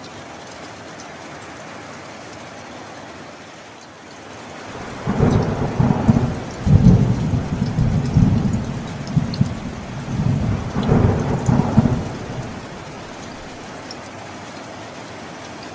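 Steady rain, with a roll of thunder rumbling in about a third of the way through, rising and falling in several surges for some seven seconds before dying away under the rain.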